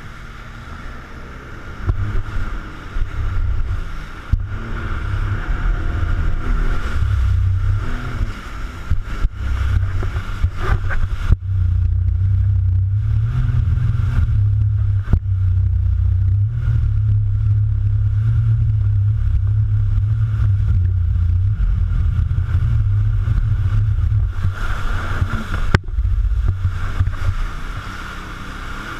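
Jet ski running steadily on the water, with a constant engine whine. Heavy wind rumble on the microphone sets in about two seconds in and eases near the end.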